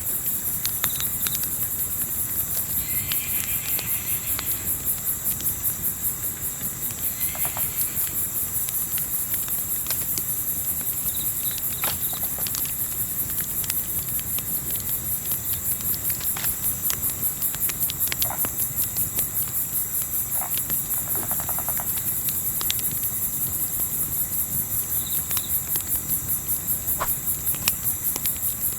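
Crickets chirping in a steady, fast high trill, over the scattered pops and crackles of a campfire and a low, even rumble of night air.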